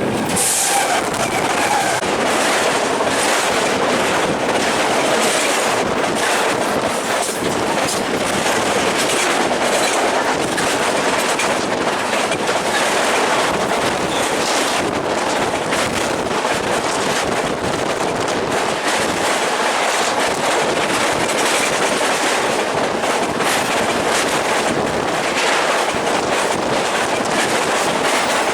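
A train passing close by: a steady, loud rush of wheels on rails with rapid clicking and clacking throughout.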